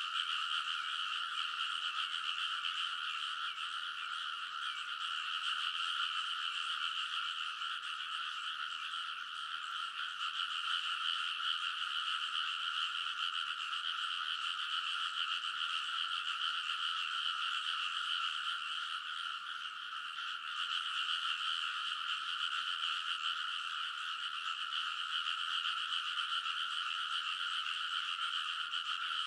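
A big chorus of many rice-paddy frogs calling all at once: a dense, unbroken wall of overlapping croaks that holds steady throughout.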